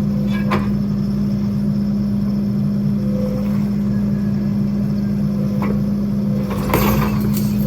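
Skid steer engine running steadily, with a brief rattling clatter near the end.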